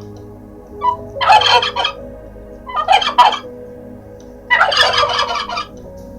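Domestic turkey gobbling: three rattling gobbles about a second and a half apart, the third the longest.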